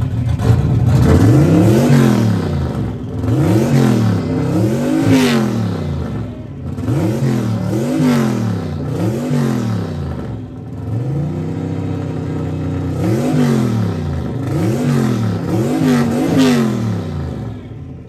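Fox-body Ford Mustang 5.0 V8 with a loud aftermarket exhaust being revved hard at a standstill: about nine quick blips that rise and fall, with one steadier hold about two-thirds through, reaching around 6,800 RPM.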